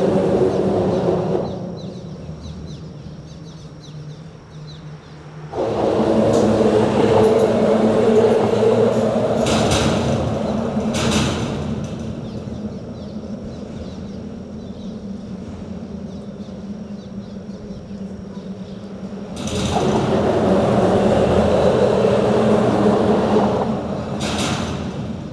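Traffic on a bridge: vehicles pass one after another in three loud waves of rumbling road noise, with a few sharp clatters as they go by, over a steady low hum.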